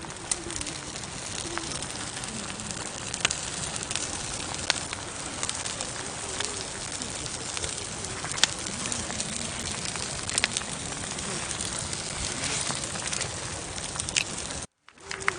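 Campfire burning: a steady hiss with sharp crackles and pops from the burning wood at irregular moments. The sound cuts out for a split second near the end.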